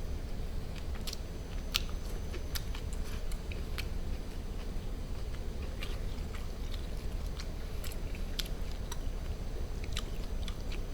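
A man chewing grilled duck meat close to the microphone, with scattered short, sharp mouth clicks as he eats.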